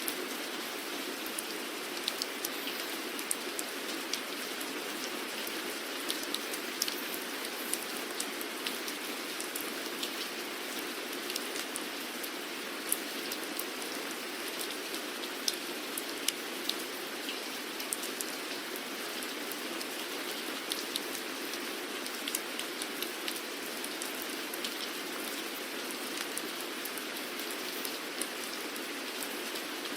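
Steady rain falling, an even hiss with many distinct drops ticking sharply on a hard surface.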